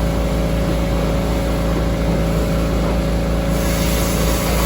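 Steady low motor drone with an even hum, joined by a brighter hiss about three and a half seconds in.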